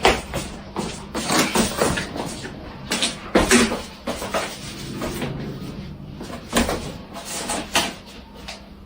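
Irregular knocking and clattering, like a cupboard door or household objects being banged about, with sharp bangs near the start, about three and a half seconds in, and again later.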